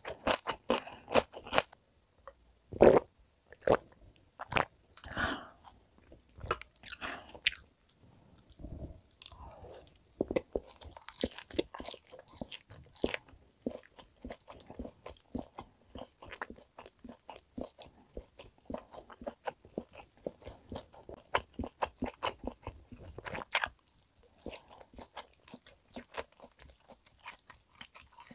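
Close-miked chewing of top blade steak: a dense run of short mouth clicks and smacks, with a few louder ones along the way.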